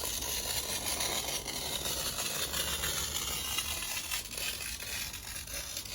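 Hand-held wheel glass cutter scoring a sheet of glass: a continuous scratchy hiss as the wheel is drawn along the pane.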